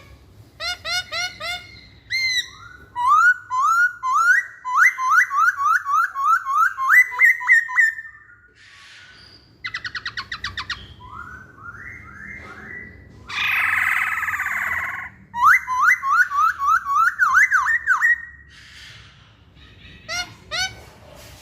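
Poksay hongkong laughingthrush singing: loud phrases of rapid, repeated upward-sweeping whistled notes, with a fast rattle of short notes and a harsh rasping call about two-thirds of the way through.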